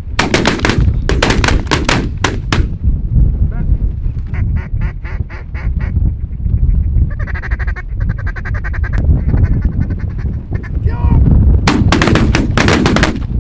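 Ducks and geese calling: runs of rapid, evenly spaced quacks, a chattering stretch in the middle and a loud series near the end, with a rising honk or two, over a steady low rumble.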